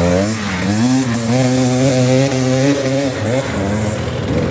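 Dirt bike engine revving hard on a steep hill climb, its pitch rising and wavering with the throttle, dipping and climbing again, then dropping lower near the end as the rider eases off.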